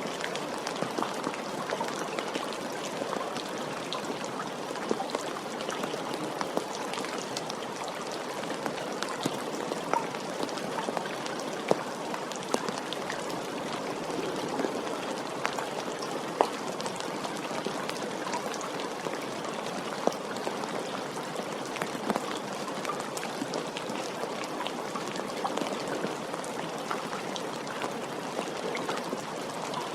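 Steady rain falling: a continuous even hiss with scattered single drops ticking sharply over it at irregular moments.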